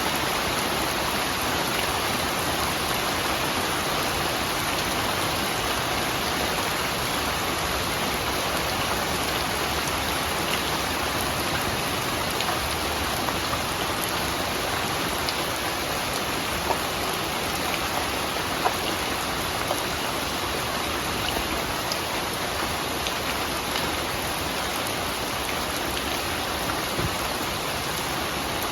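Steady rainfall: an even hiss of rain with a few sharper drop ticks here and there.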